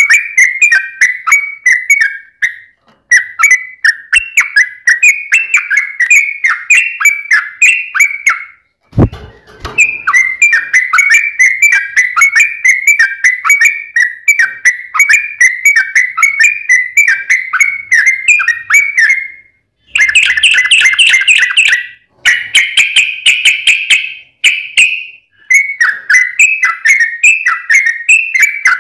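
Yellow-vented bulbul (trucukan) singing vigorously: long runs of rapid, bubbling chattering notes, broken by a few short pauses. A brief low knock comes about nine seconds in.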